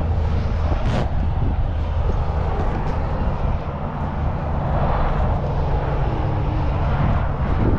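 A heavy truck engine running steadily with a low, even drone, a couple of short knocks about a second in.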